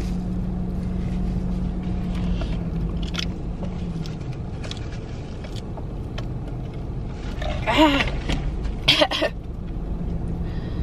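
Car engine idling, a steady low hum heard from inside the car's cabin, with a short voice sound about eight seconds in and a brief noise just after.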